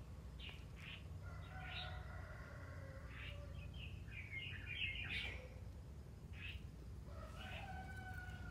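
Birds chirping faintly in short scattered calls, with two longer drawn-out calls, one starting about a second in and one near the end, over a steady low background rumble.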